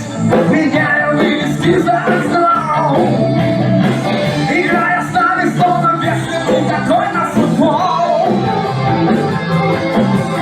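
A band playing a rock song, with a singer's voice over the instruments.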